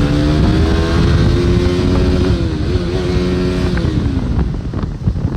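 Motorcycle engine running under way, its pitch holding steady, then dropping about four seconds in as the rider eases off the throttle, with a low rumble of wind underneath.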